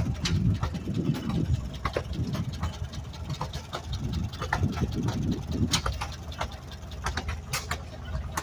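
Engine running with a steady low rumble, with scattered sharp clicks and taps throughout.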